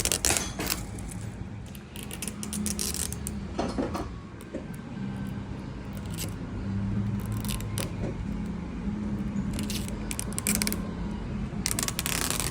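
Scattered sharp clicks and knocks, like hand tools at work, over a low steady hum.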